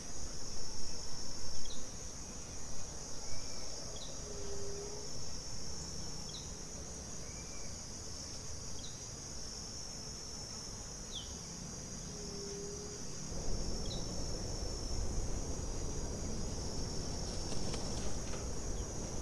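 Chorus of crickets or other insects: a steady high-pitched trill. Over it come short, high, falling chirps every two to three seconds and, three times, a lower short call.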